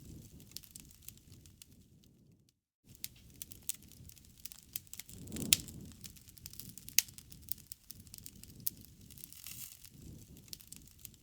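Wood fire crackling, with a soft low rush of flame and scattered sharp pops and snaps. The two loudest pops come about five and a half and seven seconds in, and the sound cuts out completely for a moment about two and a half seconds in.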